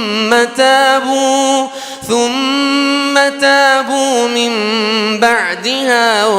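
Quran recitation in melodic tajweed style: a single voice drawing out long held notes with wavering, ornamented pitch, a short breath about two seconds in, and gliding turns of the melody near the end.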